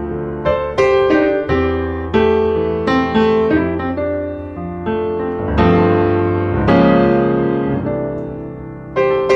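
Piano music: struck notes and chords that ring and fade, in an unhurried melody.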